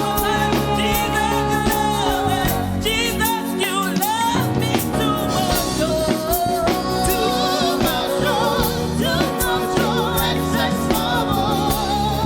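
Live praise-and-worship music: a singer with a wavering vibrato over a band with held keyboard chords and a drum kit keeping a steady beat.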